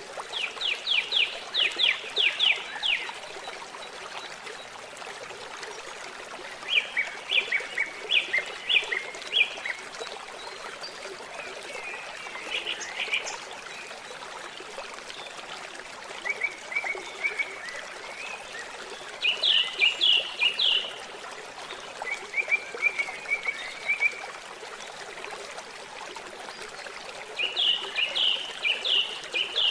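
A songbird singing short, fast trilled phrases of quick falling notes, repeated every few seconds, over the steady sound of running, trickling water.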